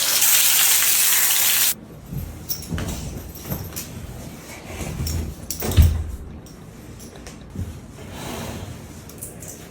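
Water spraying hard from a hose, a loud steady hiss that cuts off suddenly about two seconds in. Irregular low knocks and thumps follow, the loudest about six seconds in.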